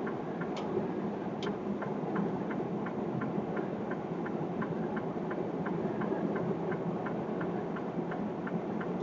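Steady engine and road noise heard from inside a truck cab, with a light, regular ticking about three times a second.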